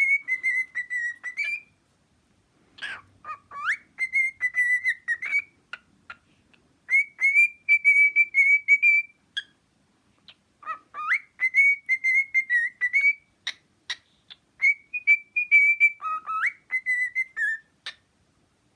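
Cockatiel whistling a repeated tune in about five phrases of quick high notes, several phrases opening with a fast upward swoop, with short pauses between them.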